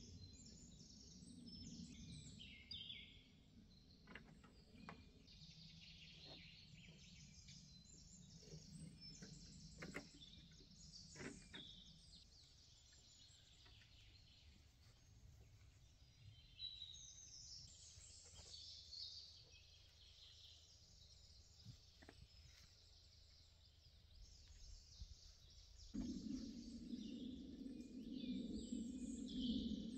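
Birds chirping and calling faintly, with a few light clicks in the first half. A steady low noise comes in suddenly near the end and stays.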